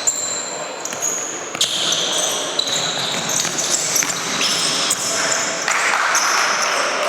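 Futsal being played on an indoor court: sneakers squeaking in short bursts on the floor, and the ball knocking as it is kicked and bounces.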